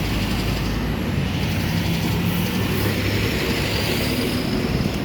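Truck on the move along a highway: steady engine drone under continuous road and wind noise.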